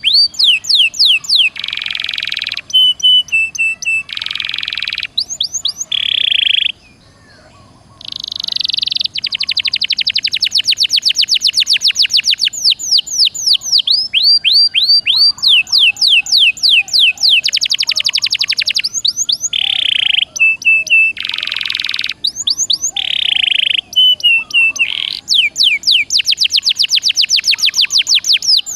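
Domestic canary singing a long, fast song of repeated downward-swooping whistles, rapid trills and harsh buzzy phrases, with a short break about seven seconds in.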